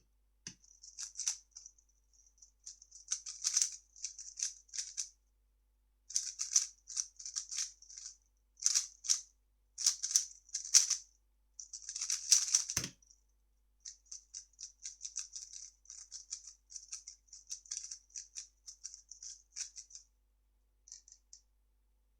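3x3 speedcube being turned fast, its plastic layers clicking and rattling in quick runs of moves with short pauses between them. A single dull thump comes about 13 s in.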